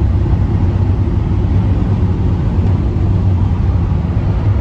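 Steady car cabin noise while driving at highway speed: a low drone of engine and road with a haze of tyre and wind noise.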